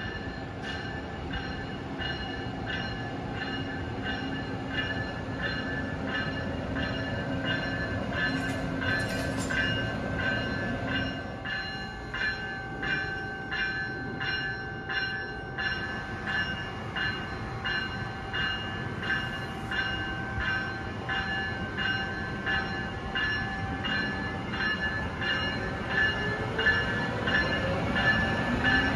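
Passenger train moving along the station track, its wheels clicking over the rail joints in a steady rhythm under steady high-pitched tones. Near the end a rising tone joins in as the train picks up speed.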